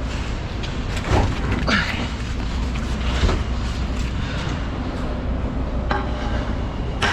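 Steady low rumble of a semi truck running, with a few scattered knocks and thumps; the sound cuts off abruptly near the end.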